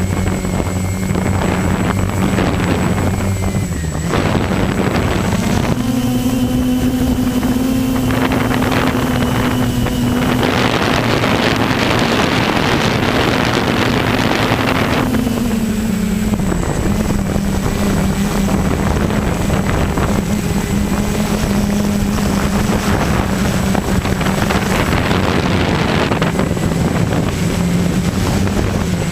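A vehicle engine running steadily. It revs up about six seconds in, holds the higher pitch for about ten seconds, then settles back. Gusts of wind noise hit the microphone, loudest in the middle.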